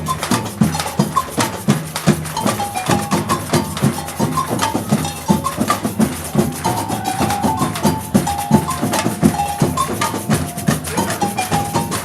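Batucada samba percussion ensemble playing a steady, dense rhythm on drums, with low drum pulses under sharper hits.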